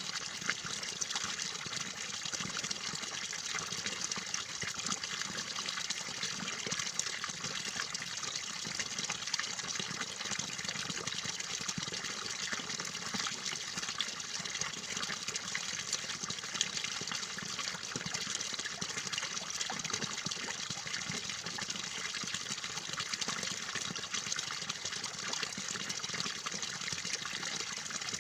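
Steady running water, an even trickling and gushing with no pause or change.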